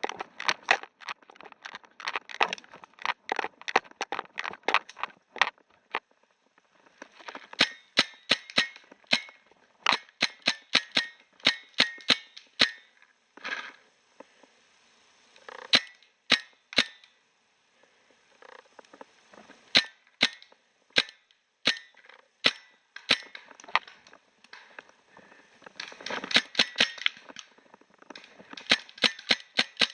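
Paintball markers firing in an exchange of fire: quick strings of shots broken by pauses and single shots.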